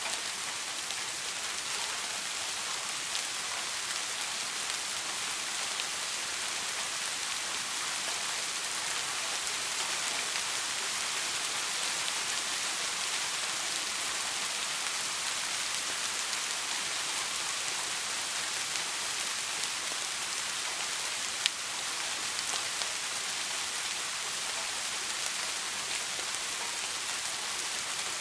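Steady soft rain falling and pattering, an even hiss with no thunder. A single sharper drop ticks about three quarters of the way through.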